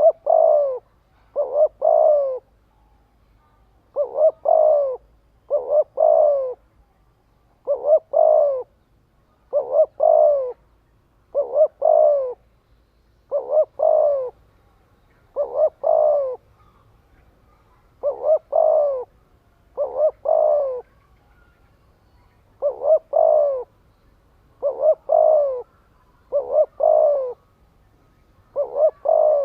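Spotted dove cooing over and over, each phrase a short note followed by a longer one, repeated about every two seconds: the fast, insistent cooing used as a decoy call to rouse other doves.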